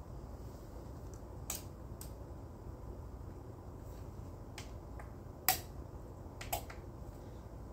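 About five sharp, isolated clicks, the loudest about five and a half seconds in, over a low steady hum.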